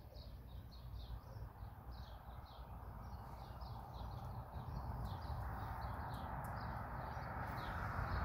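A small bird singing a run of short, high, repeated notes, about three or four a second, over outdoor background noise that grows louder toward the end.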